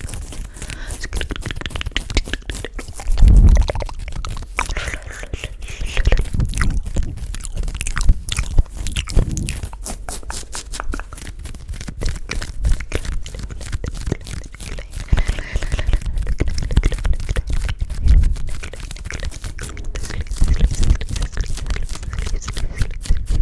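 Close-miked ASMR trigger sounds: dense, irregular wet clicking and crackling, with heavy low thumps now and then, strongest about three seconds in.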